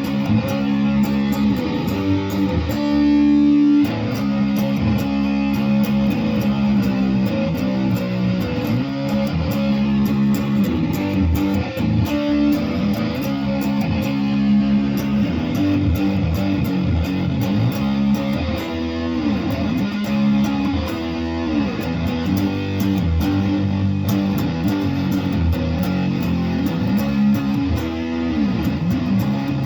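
Guitar playing continuously, with sustained notes and several notes bent up and down in pitch.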